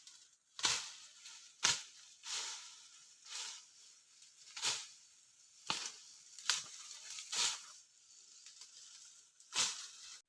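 A series of dry crunching rustles, about one a second, each with a short hissing tail, with a longer gap near the end.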